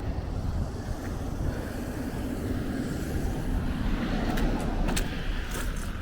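Wind buffeting the microphone with a steady low rumble, and a few sharp clicks from about four seconds in.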